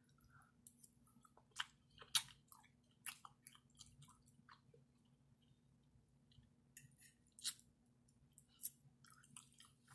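Faint, wet chewing and lip smacks of a mouthful of spaghetti with meat sauce, close to the microphone: a scattering of short soft clicks, with the loudest around two, three and seven and a half seconds in.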